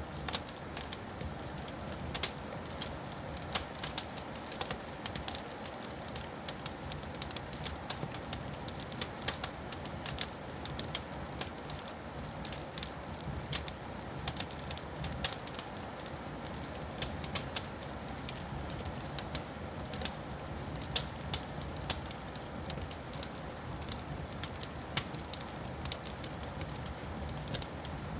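Wood fire crackling, with many sharp pops and snaps scattered irregularly over a steady hiss and a low steady rumble.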